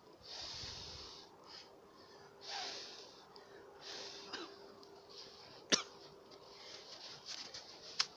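Wood campfire burning, with soft swells of hissing and two sharp pops, one just past the middle and one near the end.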